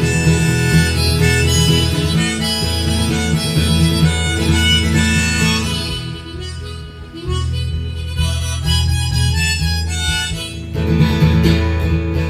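Harmonica solo over strummed acoustic guitar, an instrumental break in a folk song played live. The playing drops quieter for a moment about six seconds in, then picks back up.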